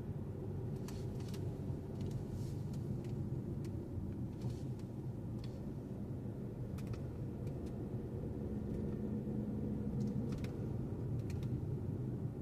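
Car driving along: steady low road and engine rumble, with scattered faint clicks throughout.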